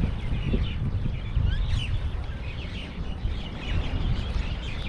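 Many small birds chirping over one another, with a steady low rumble underneath.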